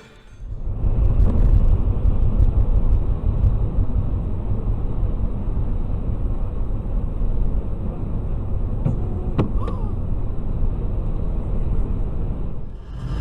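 A car on the move: a steady low rumble of engine and road noise, with a few faint clicks about nine seconds in.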